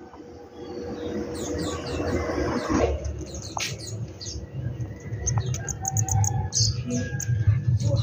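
Small birds chirping: a quick, irregular series of short, high, downward-sliding chirps throughout, over a low rumble.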